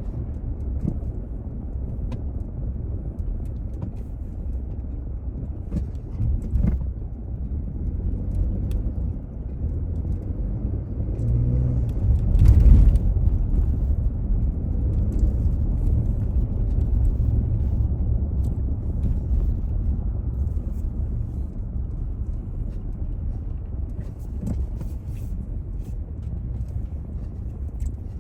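A car driving on city streets: a steady low rumble of engine and tyres on the road, with a brief louder rush about twelve seconds in.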